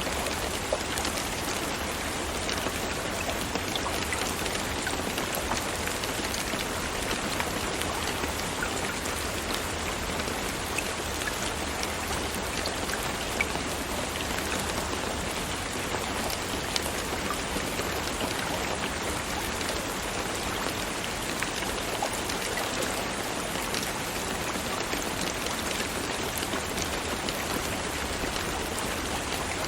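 Steady rain falling: a dense, even patter of raindrops with occasional sharper single drop hits standing out.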